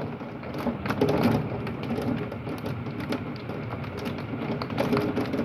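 Heavy thunderstorm rain beating down on a window, a dense steady downpour with many small sharp hits of drops or hailstones against the glass.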